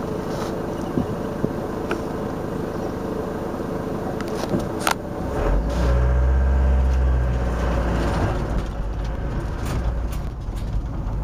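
A van driving slowly, heard from inside the cab: steady engine and road noise with scattered small clicks and rattles. A little past halfway through, a deeper, louder rumble swells up, then eases back.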